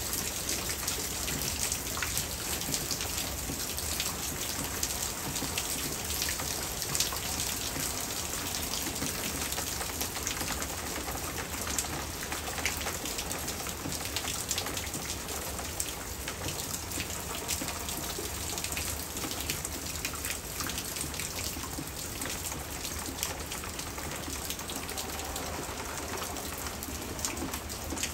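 Heavy rain falling steadily, a dense even hiss with many single drops striking close by as sharp ticks.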